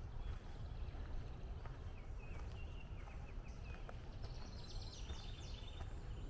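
Woodland birds singing and chirping, with a rapid trill of high notes falling in steps near the end, over a steady low rumble.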